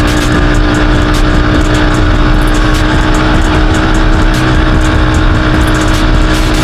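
ATV engine running at steady revs, its pitch holding constant, with a heavy low rumble.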